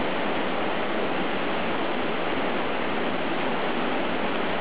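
Swollen river water surging and rushing in a steady, unbroken wash of noise; the speaker takes the high flow to be from the previous night's rain.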